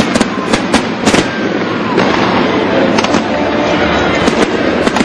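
Aerial fireworks bursting: a rapid, irregular string of sharp cracks and bangs over a steady crackling hiss from the display.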